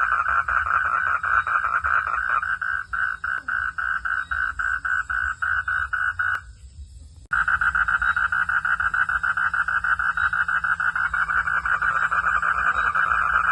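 Chorus of calling frogs: a dense, fast pulsing trill. Partway through it thins to separate pulses about three or four a second, stops for nearly a second, then starts again abruptly at full strength.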